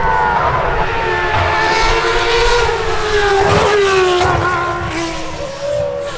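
Racing car engines running at high revs, several engine notes at once with their pitch sliding slowly up and down.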